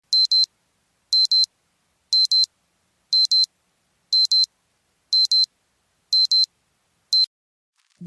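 Alarm clock beeping: a high-pitched double beep repeated about once a second, eight times, the last one a single beep cut short as the alarm is stopped.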